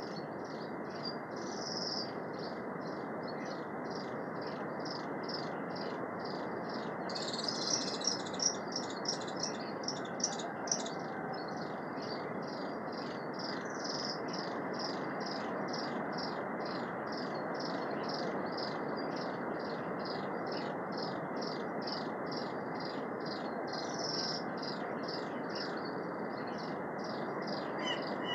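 Forest ambience: an insect-like chirping repeats steadily about two to three times a second over a constant rushing hiss. A bird calls in a quick run of louder, sharper notes around the 8 to 11 second mark, with a few single calls elsewhere.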